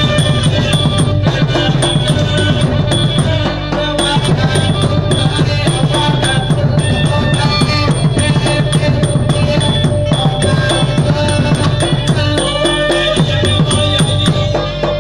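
Nora ensemble music from southern Thailand: a busy, steady drum and percussion rhythm under held melodic notes.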